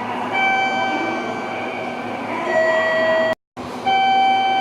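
Station electronic signal tone sounding in long, steady notes: a higher note, then a lower one about two seconds later, and the higher note again. The sound cuts out completely for a moment about three and a half seconds in.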